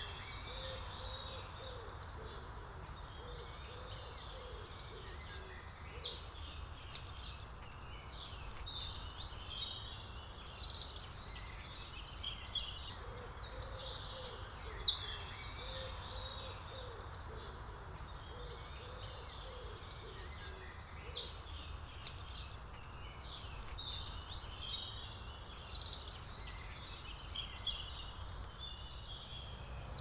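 Songbirds singing: loud, high-pitched trilled phrases a second or two long, repeated every few seconds, with fainter chirps between, over a steady low background rumble.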